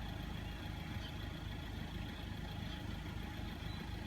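Steady low rumble, like a vehicle engine idling.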